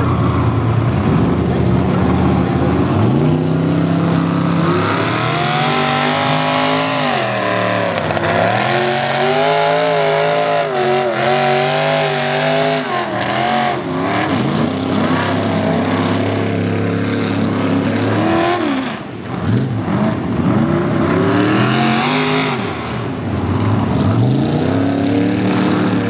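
Ford mud truck's engine revving hard and continuously during a mud-bog run. The pitch surges up and falls back again and again, with a brief drop around two-thirds of the way through.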